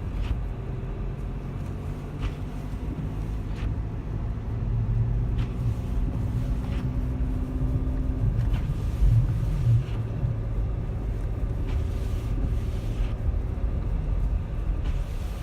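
Low, steady rumble of a running engine, with a hum that holds for about eight seconds and then drops away.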